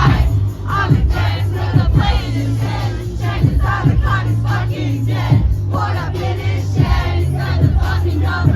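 Live concert music through a loud PA: a heavy, booming bass beat with regular drum hits and vocals over it, with the crowd's voices mixed in.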